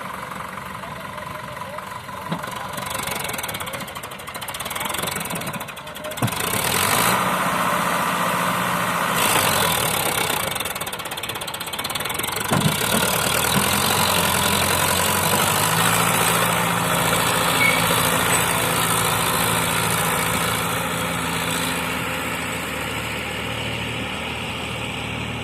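Sonalika tractor's diesel engine running. It grows louder about six seconds in and then holds a steady pitch.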